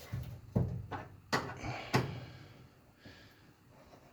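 A handful of sharp metal clinks and knocks, about five in the first two seconds and then quieter, from a pellet grill's burn pot and fire tube being worked into line while standoff screws are started.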